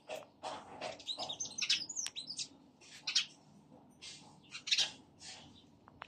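Small birds chirping: short, sharp repeated chirps, with a quick run of twittering between about one and two and a half seconds in.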